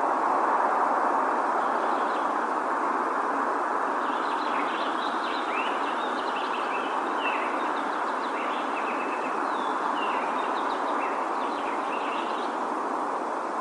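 Small songbirds chirping and calling, many short notes, some sliding down in pitch, most of them in the middle of the stretch. Under them runs a steady rushing noise.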